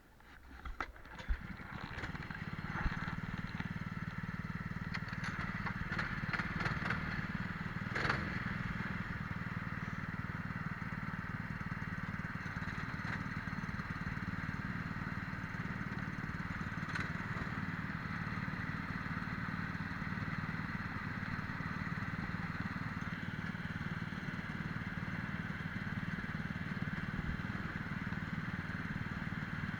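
Twin-engine Prokart's engines running, heard onboard, steady after rising over the first couple of seconds, with a few sharp clicks and knocks in the first eight seconds.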